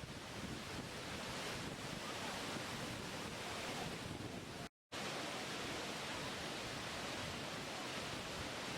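Waterfall rushing with a steady, even noise. The sound cuts out completely for a split second a little before halfway through, then resumes unchanged.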